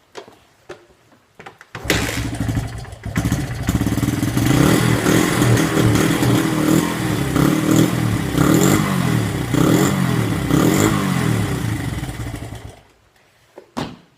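Honda CRF dirt bike's four-stroke single being kicked over, catching about two seconds in, then blipped up and down about six times and shut off near the end. It is running through the muffler with the baffle in place, which keeps the exhaust fairly quiet.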